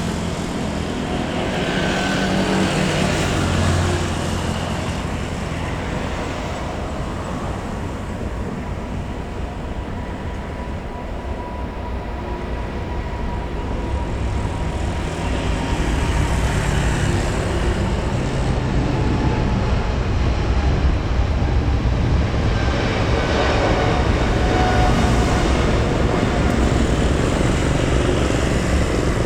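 Airliner engine noise rumbling steadily, growing louder about halfway through as the aircraft nears.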